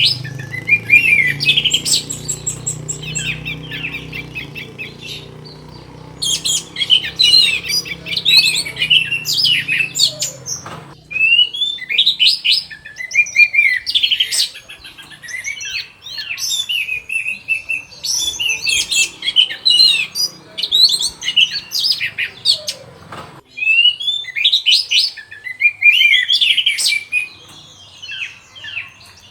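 Orange-headed thrush (anis merah) singing fast: dense runs of quick, varied chirps and whistled glides in bursts with short pauses between. A low hum runs under the song for about the first eleven seconds, then stops.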